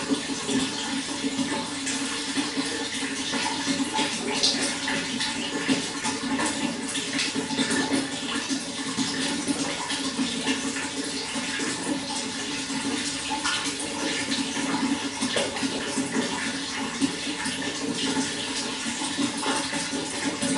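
Running water: a steady rush with many small irregular splashes throughout.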